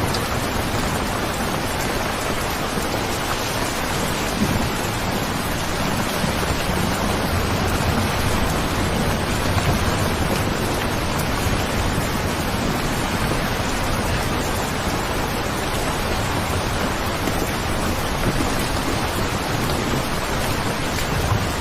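Steady heavy rain, an even dense hiss, with low rumbles of distant thunder swelling up now and then.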